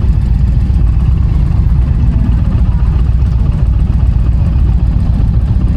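Indian motorcycle's V-twin engine running steadily on the move, a loud, even low rumble mixed with wind rush.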